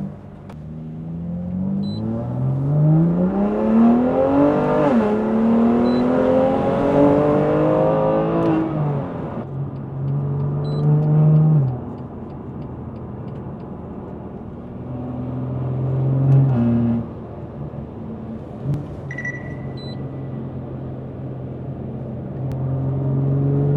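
BMW S55 twin-turbo inline-six with resonated catless downpipes, heard from inside the cabin, revving up hard under full throttle with one upshift about five seconds in, then lifting off after about nine seconds and cruising at low revs with a short rise later. Only a little rasp comes through around 2,000–3,000 rpm, which the resonators are meant to suppress.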